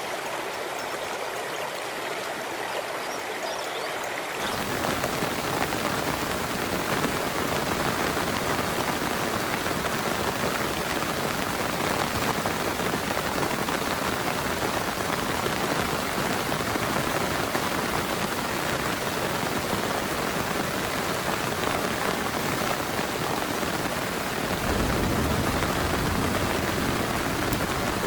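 Heavy rain falling in a steady hiss. For the first four seconds a thinner sound of flowing water is heard; then it switches abruptly to fuller, louder rain, which deepens again near the end.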